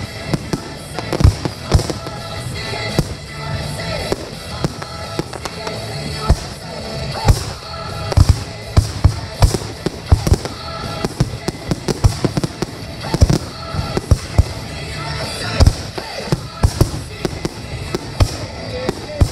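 Aerial firework shells launching and bursting in a rapid, irregular string of sharp booms and bangs, with music playing underneath.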